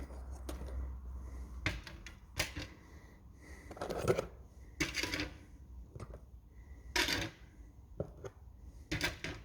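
Loose metal valve springs clinking and clattering in irregular knocks as they are handled and sorted out of a parts box.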